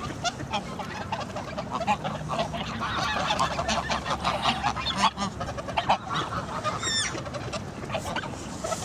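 A flock of geese honking, with ducks among them, in a dense, continuous chorus of overlapping calls. About seven seconds in, a single high call stands out above it.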